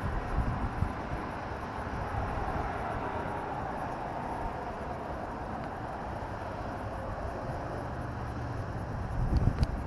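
Suzuki LS650 Savage single-cylinder motorcycle on the move: a steady mix of engine and road/wind noise, with louder low gusts near the end.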